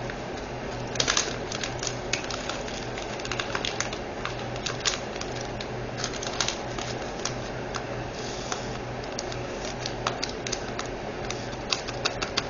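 Small plastic diamond painting drills and their storage containers being handled, making irregular sharp clicks and rattles in scattered clusters over a steady low background hum.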